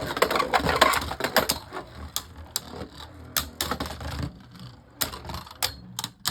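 Beyblade Burst spinning tops clattering against each other and the stadium in a dense rattle. After about a second and a half this thins to separate sharp clicks as they collide now and then.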